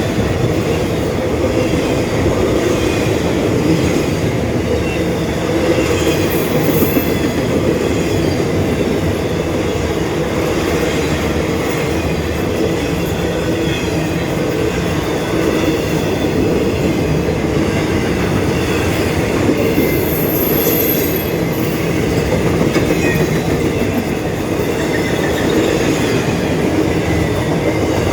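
Norfolk Southern freight train rolling steadily past, its wheels running over the rails. A short high squeal comes about six seconds in, and a longer thin wheel squeal comes about twenty seconds in.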